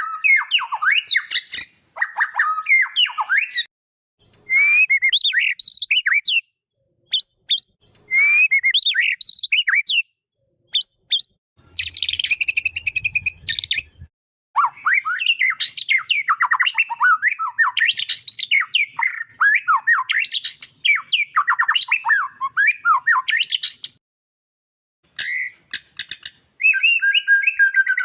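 White-rumped shama (murai batu) singing: rapid, varied whistled phrases separated by short pauses, with a harsh, scratchy call about twelve seconds in.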